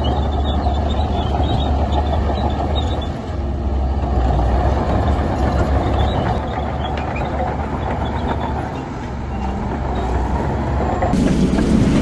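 Heavy diesel earthmoving machinery running steadily, a low engine drone with faint high metallic squeaks over it. About eleven seconds in, a louder, rougher noise comes in.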